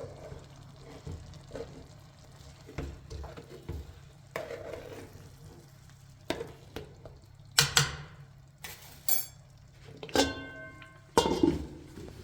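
Dishes and utensils clinking and knocking as they are handled, in irregular separate strikes, one of them ringing metallic about ten seconds in, over a steady low hum.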